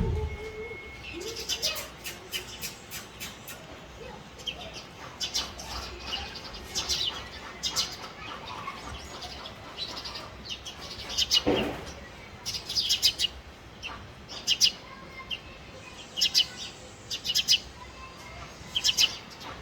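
House sparrows chirping: short, bright chirps coming in quick runs of several at a time, repeated every second or two.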